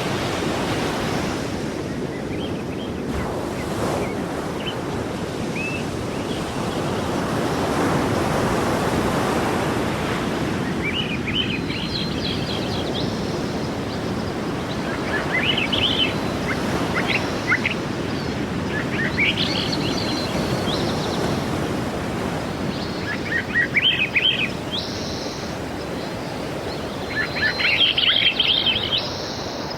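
Sea waves washing ashore in a steady, slowly swelling rush. From about a third of the way in, birds chirp over it in short high twittering bursts, loudest near the end.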